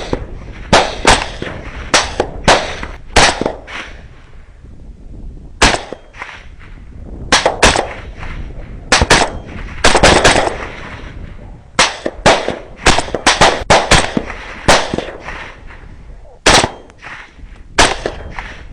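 Rapid gunfire from hunting guns: a long string of sharp shots, often several a second in quick bursts, with short pauses between bursts and the shots echoing after.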